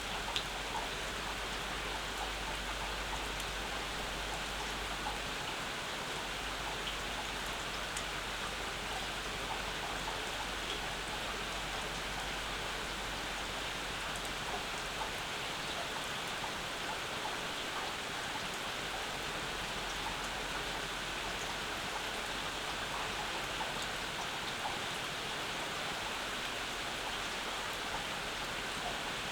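Steady summer rain, an even hiss dotted with the small ticks of single drops, with one sharper drop about half a second in.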